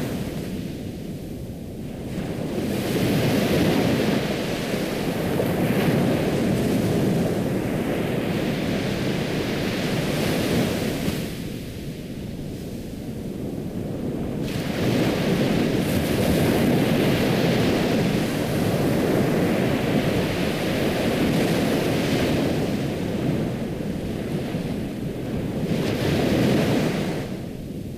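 Ocean surf: waves breaking and washing in, swelling and falling away in long surges several seconds apart, with lulls about a second in, near the middle and near the end.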